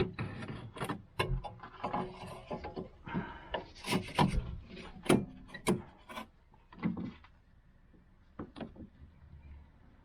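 Fuel filter housing parts of a diesel car being handled and fitted back together: a run of clicks, knocks and rubbing scrapes that thins out to a few ticks after about seven seconds.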